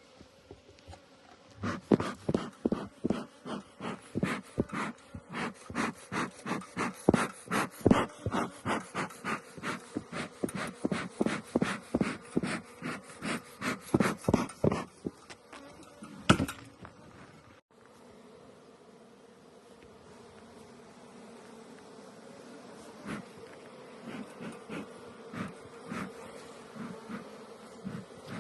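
Honeybees buzzing around an occupied hive, a steady hum. For the first fifteen seconds or so it is overlaid by a fast, regular series of short rustling strokes, about two a second; after that the buzzing goes on alone with only a few stray strokes.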